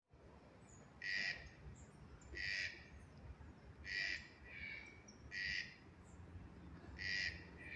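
Toucans giving short, raspy croaking calls, five calls spaced about a second and a half apart, with fainter answering calls in between.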